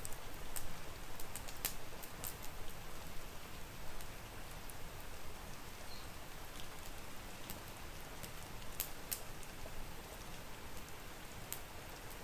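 Steady rain hiss mixed with scattered sharp pops and crackles from a wood fire in a fireplace, a few each second and irregular.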